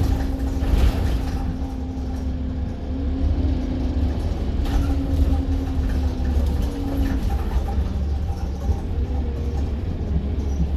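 Stagecoach London bus heard from on board while under way: a steady low engine and road rumble, with a steady drone over it that stops about seven seconds in.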